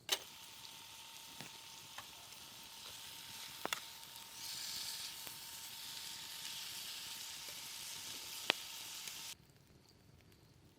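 A steady sizzling hiss with a few sharp crackles over it and a faint steady whine; it grows a little louder about four seconds in and cuts off abruptly near the end.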